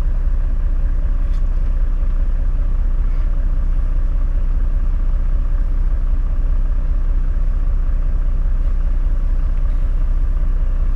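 Toyota 105 Series LandCruiser driving along a dirt four-wheel-drive track, heard from inside the cabin as a steady low rumble of engine and drivetrain.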